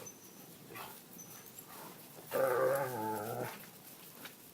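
Young Yellow Lab/Great Pyrenees mix dog giving one drawn-out, wavering vocal sound, a little over a second long, about halfway through.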